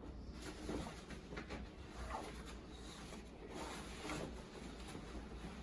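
Faint rustling and soft knocks of camping gear being handled.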